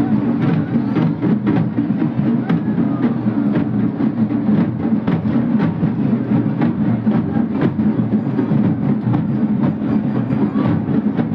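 Drums beating in a fast, uneven stream of strokes over a steady low din.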